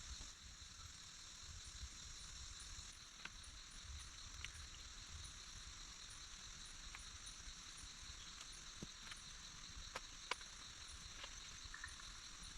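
Faint outdoor wilderness ambience: a steady high-pitched drone with scattered small clicks and ticks, the highest part of the drone dropping away about three seconds in.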